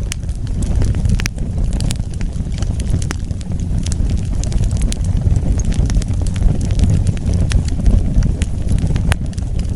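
Wood fire burning with a steady low rumble, full of frequent, irregular sharp crackles and pops.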